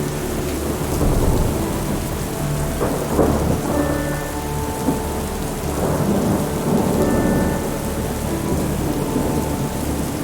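Steady rain with thunder rolling in low swells, rumbling loudest about three seconds in and again around six to seven seconds. Soft held musical notes sit faintly underneath.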